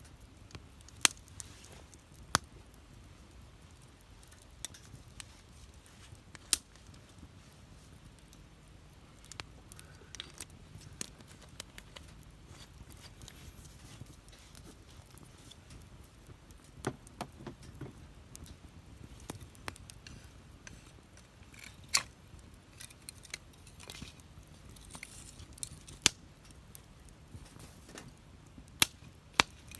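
Wood fire crackling: irregular sharp pops and snaps, a few loud ones several seconds apart and smaller ticks between, over a faint low hiss.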